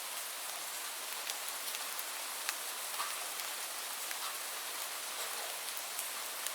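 Steady rainfall: an even hiss of falling rain with scattered sharper drop taps, a few of them louder, spread through.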